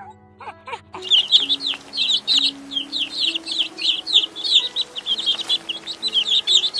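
Chickens calling: a quick, crowded run of short high-pitched peeps, several a second, starting about a second in.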